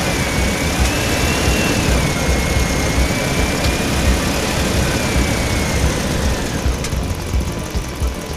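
An engine-like mechanical running sound with a high whine that wavers up and down and drops away about six and a half seconds in, over an uneven low rumble.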